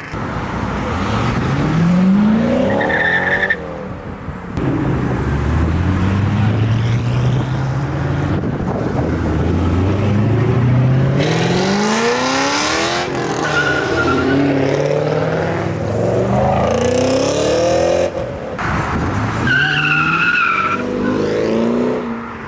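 Modified performance cars accelerating hard away, engines revving up through the gears with rising pitch, and several short bursts of tire squeal. The sound breaks off sharply a few times as one pull gives way to the next.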